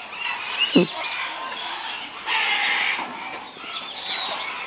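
Parrots calling in an aviary: many short high chirps, a loud brief call about a second in, and a harsh screech lasting about half a second midway.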